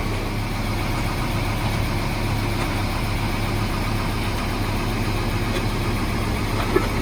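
An engine running at a steady idle, with one short click near the end.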